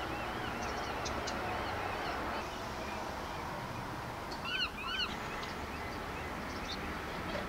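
Birds calling over a steady background hiss of outdoor ambience: a string of faint arching calls near the start, then two louder rise-and-fall calls in quick succession about four and a half seconds in.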